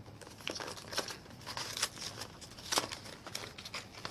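Crinkling of a single-serve Cocoa Pops cereal packet being handled, a string of short irregular crackles.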